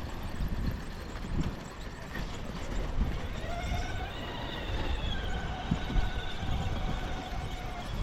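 Radio-control scale truck crawling over rocks: irregular knocks and clatter of tyres and chassis on rock, with a steady motor-and-gear whine that rises slightly a few seconds in and holds almost to the end.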